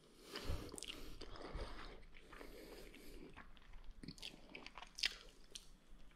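A person biting and chewing a toasted grilled cheese sandwich: faint, scattered crunches of the crisp crust and wet mouth sounds.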